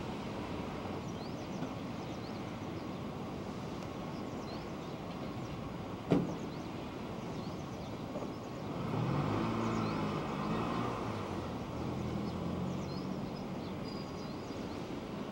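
Electric freight locomotive shunting hopper wagons at a distance, heard over a steady outdoor noise bed. There is a single sharp click about six seconds in, and a humming drone with several tones swells up about nine seconds in and lasts a few seconds.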